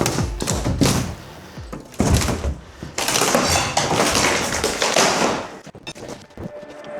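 Demolition impacts: several hard knocks and thuds in the first two seconds, then a longer rattling crash of debris coming down from about three seconds in, fading out by about six seconds.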